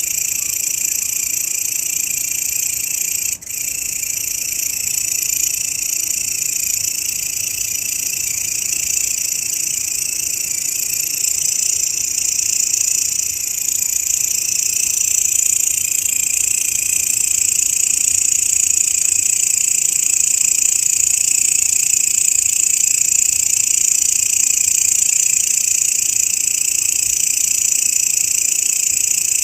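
Grasshopper (belalang) call: a continuous, high-pitched shrill buzz that holds steady throughout, with a brief break a little over three seconds in.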